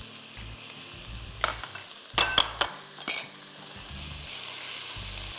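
Boneless chicken pieces sizzling in ghee in a nonstick wok as ground spices are fried in and stirred with a silicone spatula. The sizzle grows louder in the second half. A few sharp clinks sound around two and three seconds in.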